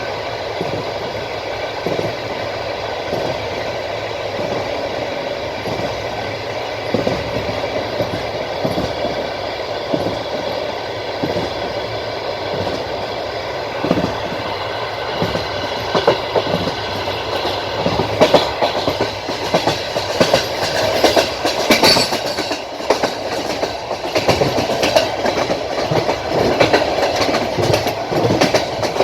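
Passenger train wheels clattering over the rail joints at speed: a steady running rumble crossed by irregular clacks, which grow busier and louder past the middle, with a cluster of sharp clacks about two-thirds of the way in.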